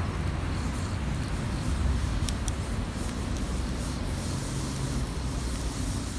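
Campfire burning, with scattered sharp crackles and pops of burning wood over a steady low rumble.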